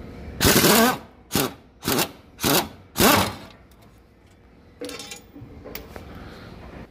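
Handheld power tool run in five short bursts, each spinning up and down, while undoing the fuel tank's mounting screws, followed by a few faint clicks and rattles.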